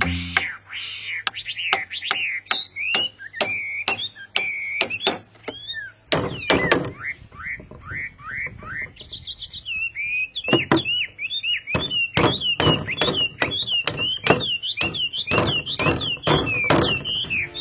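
Sharp knocks, two or three a second, over quick, repeated short chirping calls from a bird.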